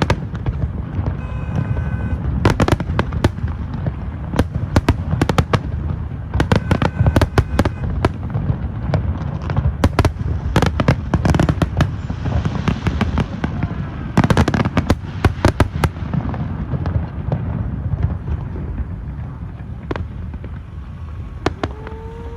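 Fireworks display: a rapid, continuous string of sharp bangs and pops over a steady low rumble, with a stretch of crackling about halfway through. The bangs thin out near the end.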